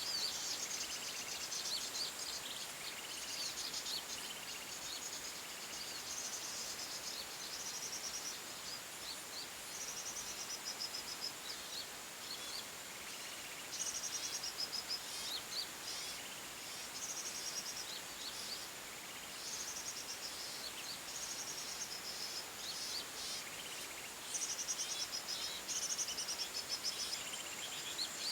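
Forest birds calling in short, high, rapid trilling phrases every few seconds over a steady, high-pitched insect drone.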